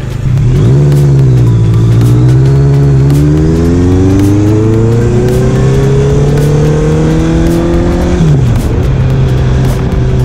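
Honda CBR1000RR-R's inline-four engine running under way: the revs dip about a second in, climb steadily for several seconds, then drop sharply about eight seconds in and hold steady.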